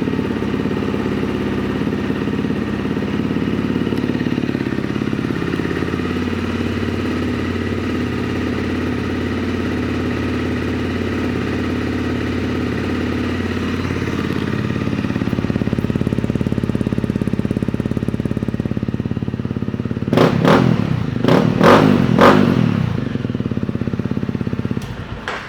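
Honda CRF250L's single-cylinder four-stroke engine with an aftermarket FMF exhaust idling steadily, then revved in several quick throttle blips about twenty seconds in, and shut off near the end.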